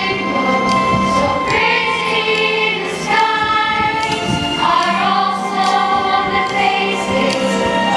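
Choir singing slow, held notes over musical accompaniment, with a steady low note sustained beneath, changing chord every second or two.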